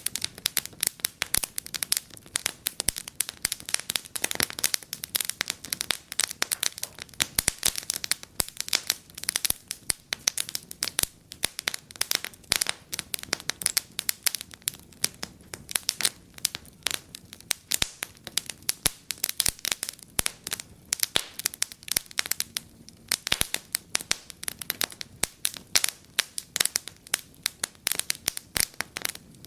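Wood fire burning in a fireplace, crackling and popping with many irregular sharp snaps.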